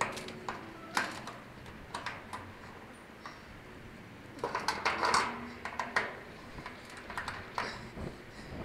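Scattered light clicks and knocks of parts and hardware being handled during the ceiling fan installation, with a busier rattle about five seconds in.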